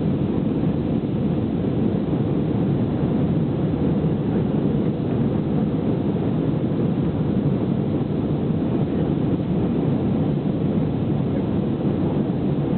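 Steady, even cabin noise of an Airbus A319 during takeoff: the jet engines running at high power and the airflow, heard from a passenger seat inside the cabin as a deep, muffled rumble.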